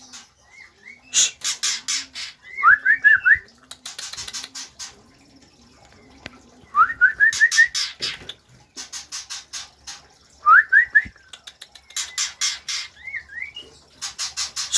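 White-rumped shama (murai batu, Medan type) singing: loud bursts of fast harsh rattling chatter alternating with short runs of quick rising whistled notes.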